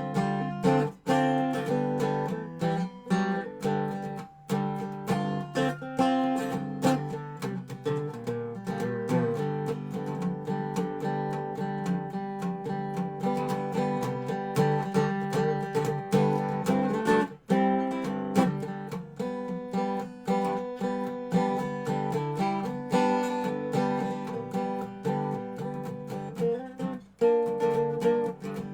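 Dobro resonator guitar played in a blues jam: a run of plucked notes ringing over one another, with no pause in the playing.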